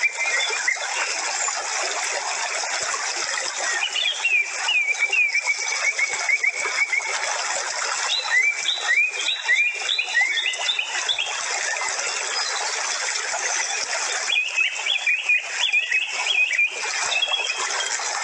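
Birds chirping in three short runs of quick rising chirps over a steady hiss.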